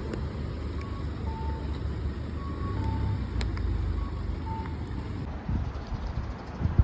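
Steady low rumble of a vehicle or machine, with several short electronic beeps at two alternating pitches over the first few seconds and a single click partway through.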